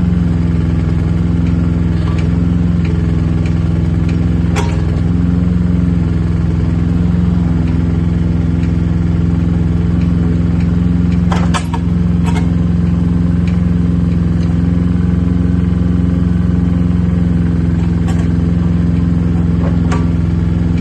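Hanix H09D mini excavator's diesel engine running at a steady idle, with a few brief clicks.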